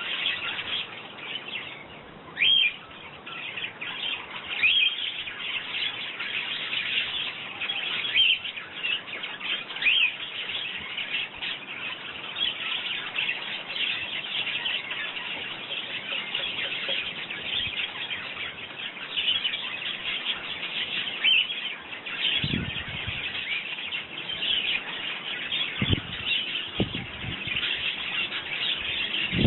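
Sparrows chirping continuously, many short chirps overlapping from several birds at once.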